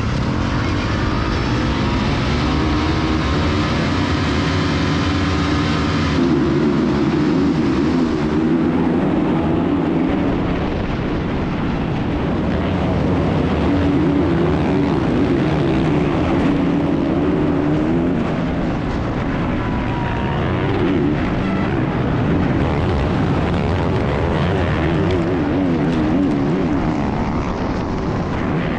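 Motocross dirt bike engine under way, heard from a GoPro on the bike or rider. The engine note rises and falls in repeated swells as the throttle is worked through the gears.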